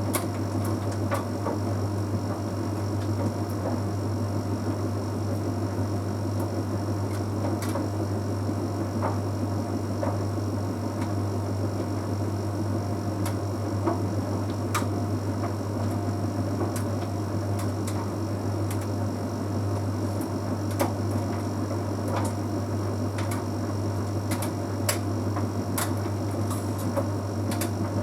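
Bosch Series 6 WQG245R9GB heat pump tumble dryer running mid-cycle: a steady low hum under the rushing of the turning drum, with scattered light clicks and ticks.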